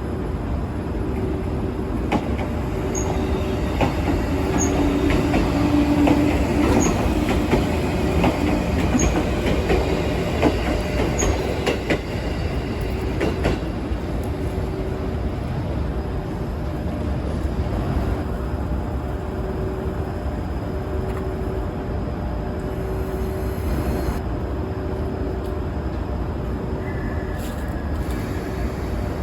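Train running on rails: a steady rumble of wheels and running gear that swells louder for a few seconds early on, with a faint tone pulsing about once a second.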